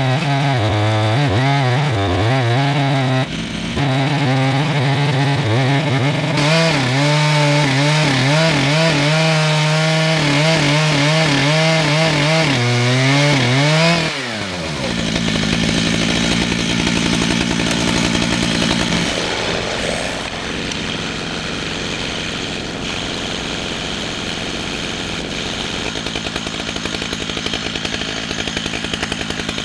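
Chainsaw running hard while milling a red oak log, its pitch wavering at high revs. About 14 seconds in the pitch drops sharply, and the saw carries on at a lower, steadier note with more rasping noise.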